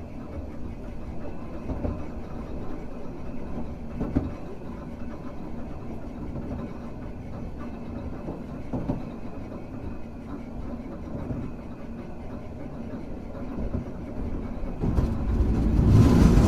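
Hankai Tramway car 351 running along the track: a steady low rumble with a faint hum and occasional single knocks from the wheels on the rails. Near the end, the sound swells into a much louder rush.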